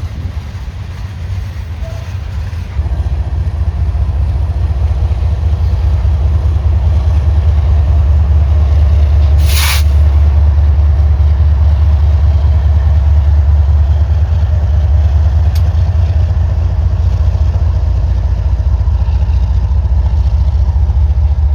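Freight train's diesel locomotives running close by, a loud, steady low rumble that swells about three seconds in, with one short hiss about ten seconds in.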